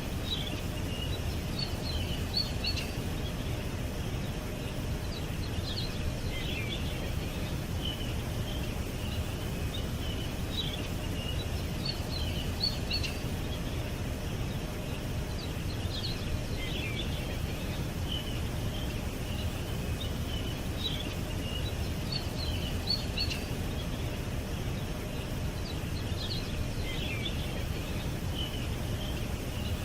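Small birds chirping and twittering in quick high clusters every few seconds, over a steady low background rumble.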